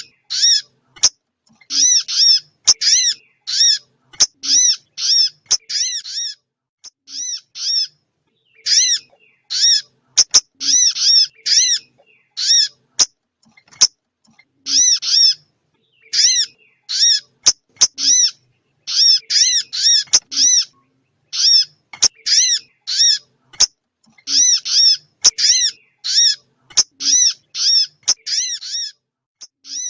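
Recorded small-bird calls played as a lure for bird trapping: fast runs of short, sharp chipping notes, repeated again and again with short gaps between the runs.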